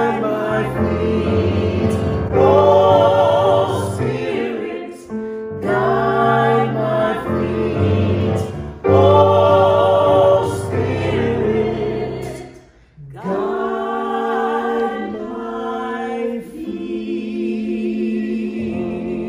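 Choir singing a hymn: several voices in harmony, sung in phrases with vibrato and short breaks between them.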